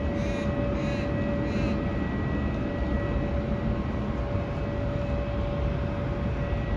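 Jet airliner engines running at an airport: a steady low rumble with a faint steady whine.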